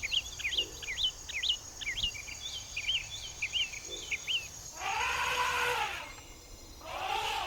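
Outdoor wildlife ambience: quick bird chirps and a steady high insect buzz, then two longer, drawn-out animal calls about five and seven seconds in.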